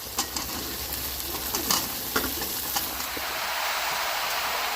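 Chopped bottle gourd frying in hot oil in a pan while being stirred: a few clicks and scrapes of the utensil on the pan in the first three seconds, then a steady sizzle that grows a little louder.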